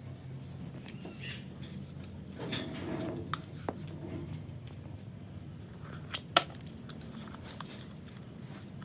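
Metal tools and parts clinking and clattering on a workbench, with two sharp metallic clicks about six seconds in, over a low steady hum.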